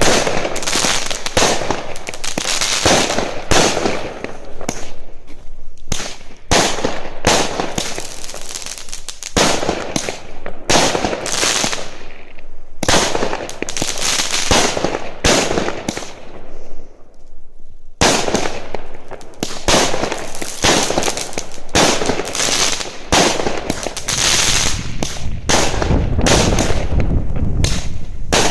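Fireworks going off in a rapid, near-continuous string of bangs and crackles, with a couple of short lulls about halfway through.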